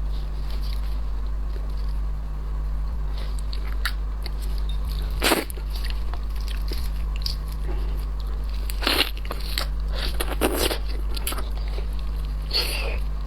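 Crunchy biting and cracking of cooked shrimp or prawn shells while eating, a handful of sharp crunches with the loudest about five seconds in and more around nine, ten and near the end. Throughout is a steady low electrical hum.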